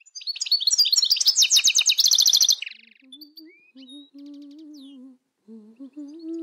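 Birdsong: a loud, rapid run of high chirps and trills lasting about two and a half seconds. It gives way to a voice softly humming a slow melody, with faint bird chirps continuing above it.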